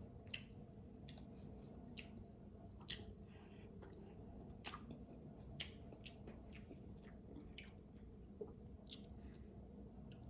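Faint close-up eating sounds of a person working through king crab: soft wet chewing with a dozen or so scattered sharp clicks.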